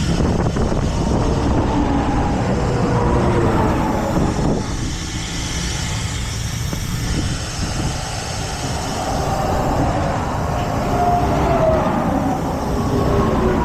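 A heavy truck running with a steady low rumble. A faint whine slides up and down in pitch at several points.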